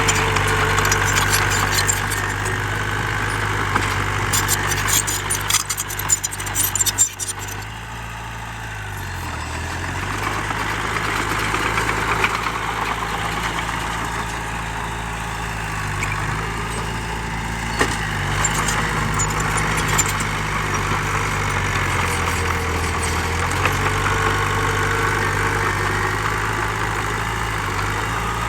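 Diesel engine of heavy earthmoving machinery running steadily, its speed sagging and recovering several times as it takes load. A burst of rattling and knocking comes about four to seven seconds in.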